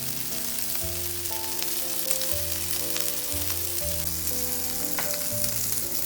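Food sizzling and frying in a hot pan, a steady hiss with scattered crackles and pops, over soft background music.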